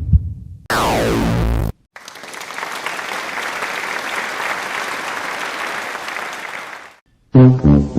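A run of sound effects: a low heartbeat-like thump at the start, a second-long pitched slide falling steeply in pitch, then about five seconds of applause. Near the end a plucked, guitar-like musical cue begins.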